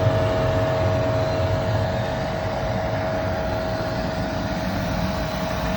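Diesel-fired foundry furnace with an air-atomized burner, burning steadily at its working fuel flow: a continuous low rumble of the flame with a steady hum over it.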